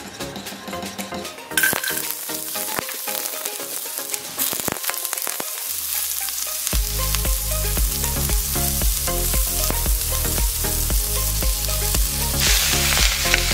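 Vienna sausages and sliced garlic sizzling as they fry in oil in a pan, with scattered clicks of stirring. The sizzle starts abruptly about a second and a half in and grows louder near the end, when the cut vegetables go into the pan.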